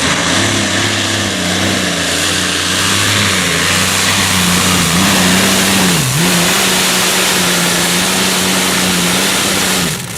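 Competition pulling tractor's engine running flat out under load, its pitch held high and steady with a brief dip about six seconds in, then falling away near the end.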